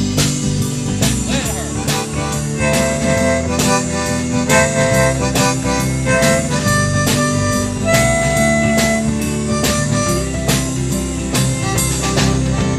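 Live country-rock band playing an instrumental break: a held, reedy lead melody over sustained bass and guitar, with a steady drum beat.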